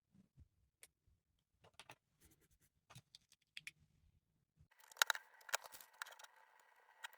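Faint, scattered clicks of plastic Lego bricks being handled and pressed together. About five seconds in, a denser clatter begins, with faint steady tones under it.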